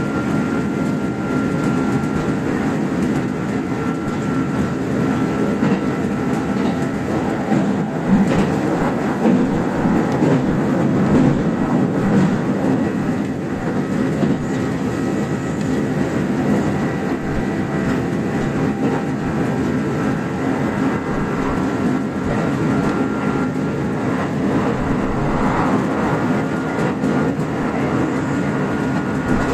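Kintetsu express train running at speed, heard inside the front car: a steady rumble of wheels on rails with a faint, steady whine and a few light knocks.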